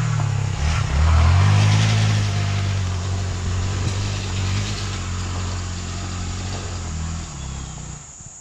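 Vehicle engine running, revving up about a second in, then holding a steady pitch before easing off near the end.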